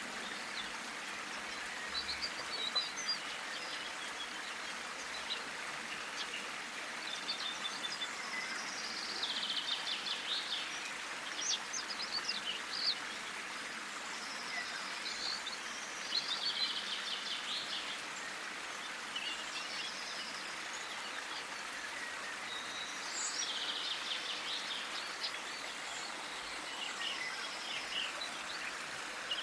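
Wild garden birds calling and singing, with high chirps and short phrases every few seconds, over a steady background hiss.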